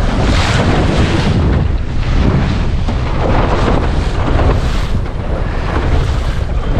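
Gusty wind buffeting the microphone over the splash and rush of waves against a small sailing dinghy's hull as it beats upwind through chop, in surges about every second or so.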